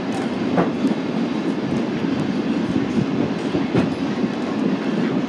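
Railroad cars rolling along the track: a steady rumble with scattered clicks and knocks from the wheels and running gear.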